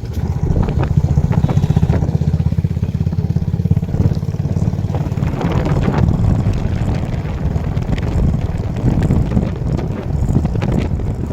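Motorcycle engine running steadily as the bike is ridden along, with a fast, even low throb.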